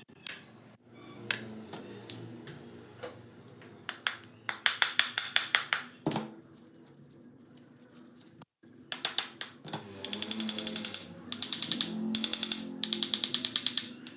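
Tool work on the metal of a refrigerator compressor: several runs of rapid, evenly spaced clicks or strokes, a short run near the middle and longer, denser runs through the last few seconds.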